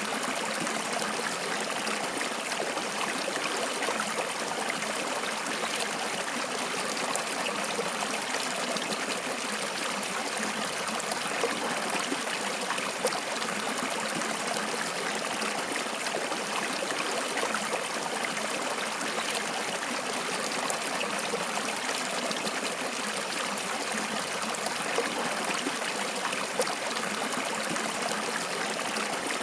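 Water flowing steadily in a stream, a continuous rushing and trickling with small splashes scattered through it.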